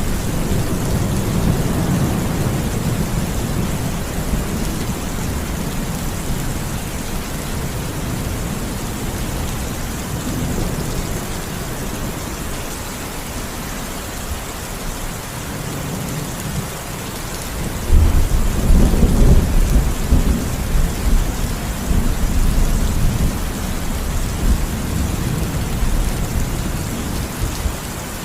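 Steady rain falling, with rolling thunder rumbling low throughout; a louder thunder rumble breaks in suddenly about two-thirds of the way through and slowly dies away.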